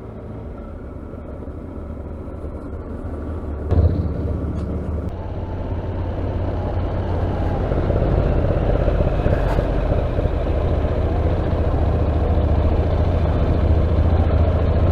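Motorcycle riding along a road, heard from a helmet-mounted camera: a steady low engine rumble mixed with wind noise. It steps up about four seconds in and then grows gradually louder.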